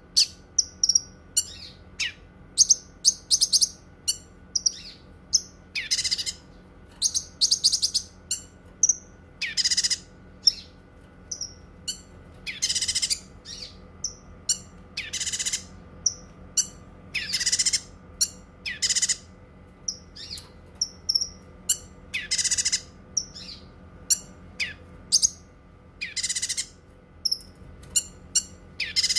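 Cucak kinoi singing: loud, harsh, buzzy phrases about half a second long, repeated every one to three seconds, with short high chirps in between.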